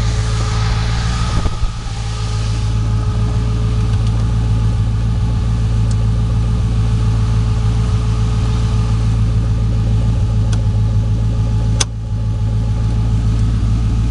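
Chevrolet 409 V8 in a 1932 Ford Roadster idling steadily, with two brief clicks, about a second and a half in and near the end.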